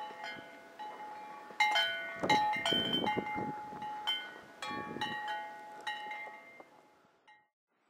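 Wind chimes ringing in gusty wind: clusters of metal strikes, each leaving clear tones at a few fixed pitches that ring on and slowly die away. The sound is busiest in the middle and fades out near the end.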